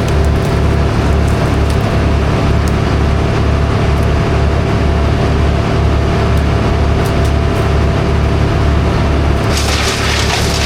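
Heavy machinery's engine running steadily, with a low throb pulsing about twice a second. Near the end a louder, rough hiss-like noise joins in.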